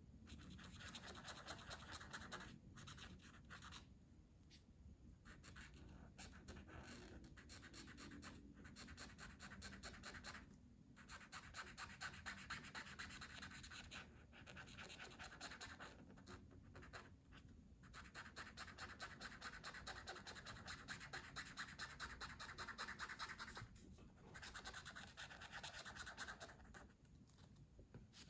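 Faint scratching of colouring on paper: rapid back-and-forth strokes in long runs, broken by short pauses every few seconds.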